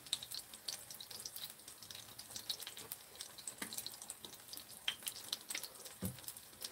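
Kimchi pancake frying in oil in a pan: a faint, steady sizzle full of tiny crackles, with a few louder ticks.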